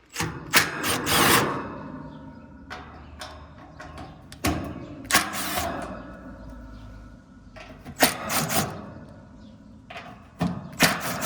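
Hand tool loosening and removing the bolts on the sheet-metal top of an outdoor AC condenser unit: sharp clicks and scraping rasps in several short bursts a few seconds apart.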